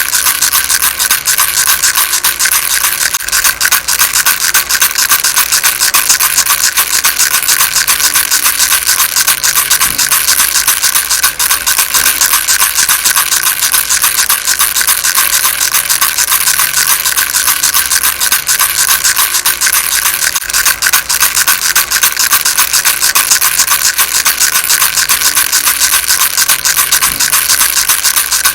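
Baby rattle shaken continuously: a dense, fast, unbroken rattling that is mostly high-pitched and holds a steady level.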